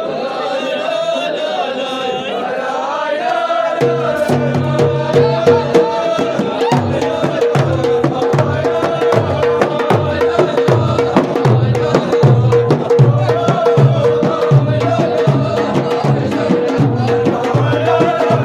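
Ahwach music: group chanting, joined about four seconds in by frame drums playing a steady beat with sharp claps or rim strokes over it, while the singing carries on.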